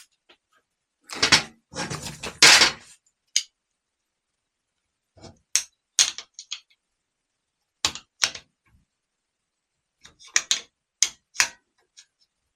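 Metal hand tools clinking and clicking on a starter solenoid's terminal stud as its lock nut is tightened. A dense clatter comes about a second in, then short bursts of sharp clicks recur through the rest.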